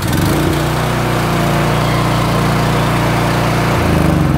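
Petrol engine of a 250-bar engine-driven high-pressure washer running steadily just after a key start, its note shifting slightly near the end.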